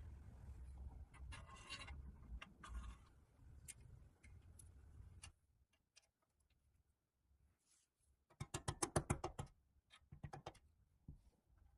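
A low rumble with scattered light clicks, then quiet. About eight seconds in comes a quick run of sharp clicks, roughly eight a second for over a second, followed by a few stray clicks.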